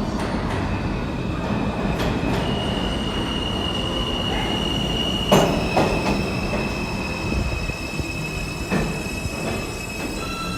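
New York City subway train running through the station over a steady rumble, its wheels squealing in a high, slightly wavering tone. A few sharp clacks of wheels over rail joints break in, the loudest about halfway through.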